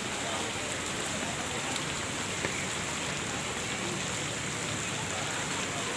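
Steady rain falling on surfaces, with scattered single drops ticking.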